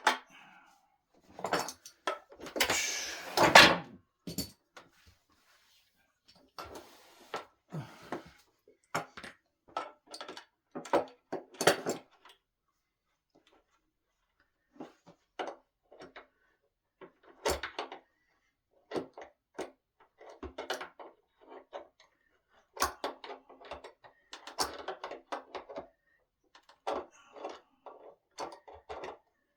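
Scattered knocks, clicks and light rattles from handling the parts and hardware of a solid-wood dining table during assembly, with a longer, louder scrape about three seconds in.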